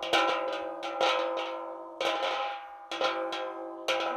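Homemade wind chime made from an old gas tank with metal farm-machinery pieces hung through it, clanging irregularly as the pieces strike the tank. Each strike rings on in several sustained metallic tones.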